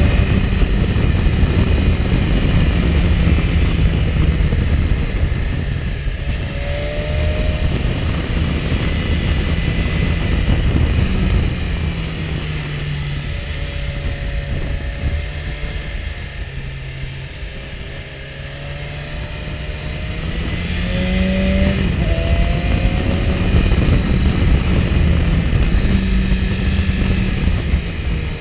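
BMW S1000XR motorcycle's inline-four engine under way, its note rising and falling with throttle and gear changes, over wind rush. The engine eases off about two-thirds of the way through, then pulls harder again.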